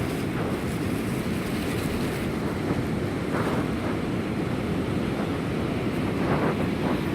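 Sea surf washing on a beach, with wind buffeting the microphone, a steady rush swelling slightly twice.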